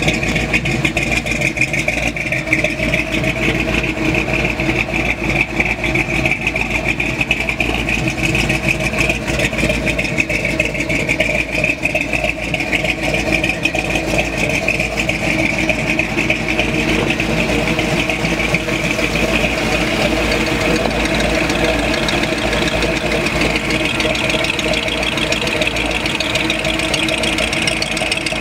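Hot rod engine idling through its exhaust, a steady loud run with small rises and falls in pitch as the car creeps forward.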